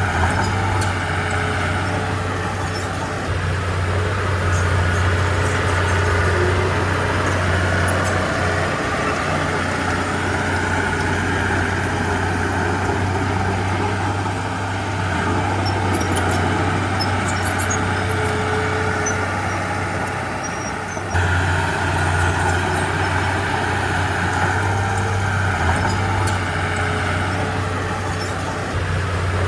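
Heavy diesel earthmoving machinery running steadily, with a strong low engine drone and light scattered metallic clinks. The engine note steps up in loudness about two-thirds of the way through.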